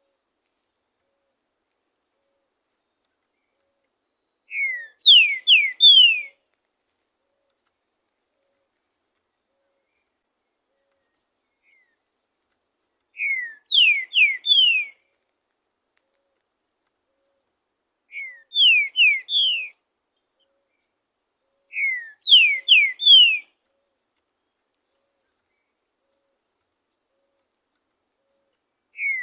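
Green-winged saltator (trinca-ferro) singing: four short phrases of loud slurred whistles, each about a second and a half long, spaced several seconds apart.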